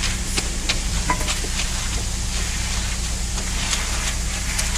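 A steady low engine rumble, with short scraping strokes of tools working wet concrete.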